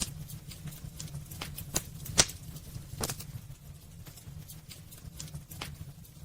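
Wood fire crackling in a fireplace: irregular sharp pops and snaps over a steady low rumble of the flames, with the loudest pop about two seconds in.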